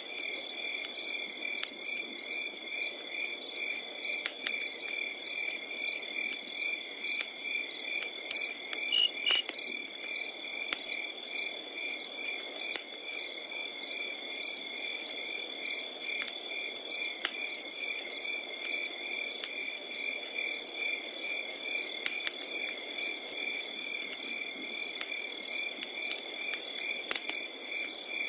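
Crickets chirping in an even rhythm of about two to three chirps a second over a continuous high insect trill, with the sharp pops and soft hiss of a wood fire crackling.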